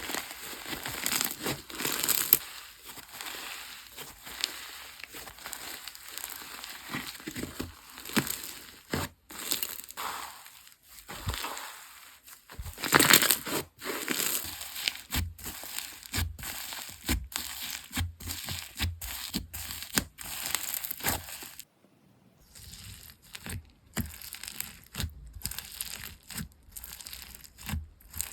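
Slime being squished and pressed by hand, a dense run of small pops and clicks that rises and falls, loudest about thirteen seconds in, with a short break about three-quarters of the way through.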